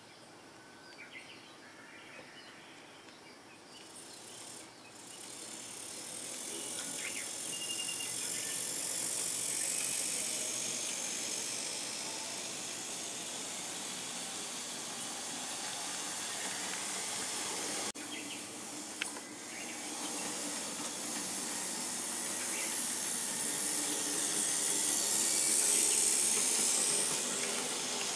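Bemo HOm-scale model train running on the layout: a high, steady whirring hiss of the small motor and wheels on the rails that grows louder as it approaches and swells twice, with a short click partway through.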